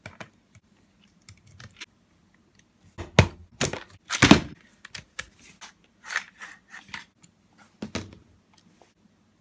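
Clicks, knocks and scrapes of a Tokyo Marui Type 89 airsoft electric gun being handled and taken apart. The loudest knocks come about three and four seconds in, with lighter clicks scattered through the rest.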